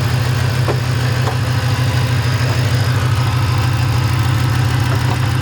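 Supercharged 5.4-litre V8 of a 2008 Shelby GT500, fitted with aftermarket headers and a Ford Racing exhaust, idling steadily with a deep, even rumble.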